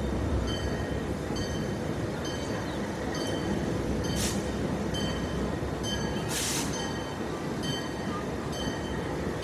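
Diesel road-switcher locomotive rolling into a station with its engine rumbling and its bell ringing steadily, about once every three-quarters of a second. Two short hisses come about four and six and a half seconds in.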